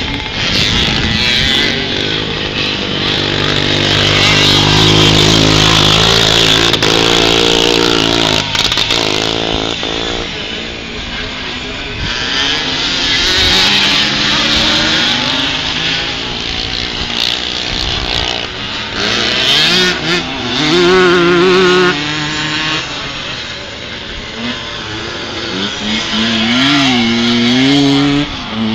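Vintage motocross bike engines racing on a dirt track, revving and shifting. A steadier engine note holds about four to nine seconds in, and near the end the pitch rises and falls quickly with the throttle.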